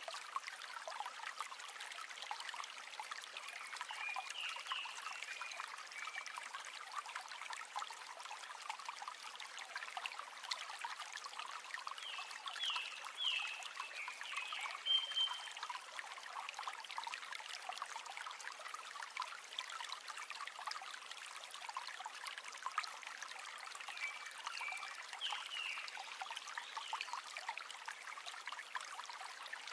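River water flowing and babbling steadily. Short high chirps come in three brief groups, a few seconds in, near the middle and near the end.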